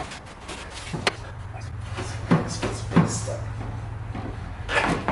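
Clunks and knocks of an exhaust muffler being worked loose from its rubber hangers: a sharp click about a second in, then two heavier knocks a little over half a second apart, and more clatter near the end.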